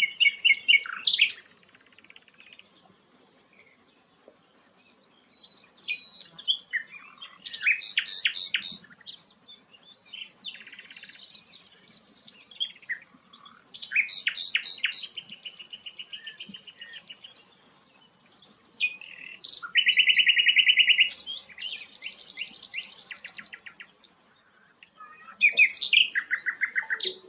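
A sikatan londo, a flycatcher, singing in separate phrases of fast trills and rapid chattering note runs, with short pauses between phrases.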